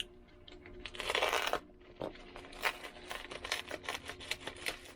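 Plastic packaging torn open for about half a second, about a second in, followed by a run of small clicks and rustles as the wrapping and part are handled.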